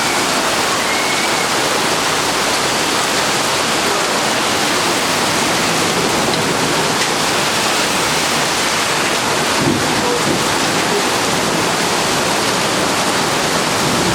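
Heavy rain pouring down steadily, mixed with the rush of a torrent of runoff water.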